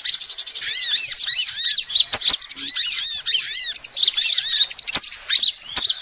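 Female sunbird calling: a fast, continuous run of high, arched chirps and twitters, with a few sharp clicks about two, five and six seconds in.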